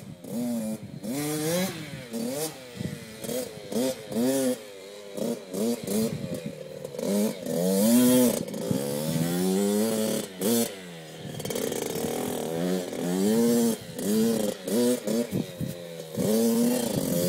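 Small dirt bike engine being ridden, revving up and dropping back again and again, its pitch rising and falling about once a second.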